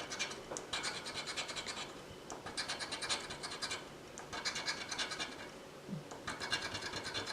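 Scratch-off lottery ticket being scratched in rapid back-and-forth strokes, in about four bouts with short pauses between them.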